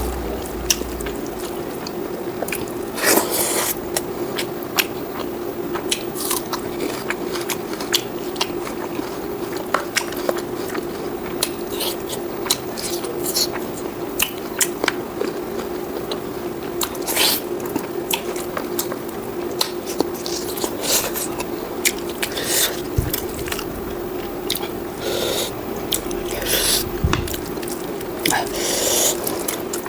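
Close-miked chewing and biting of pork curry with rice: wet, squishy mouth sounds with many small sharp clicks and occasional crunches, over a steady faint hum.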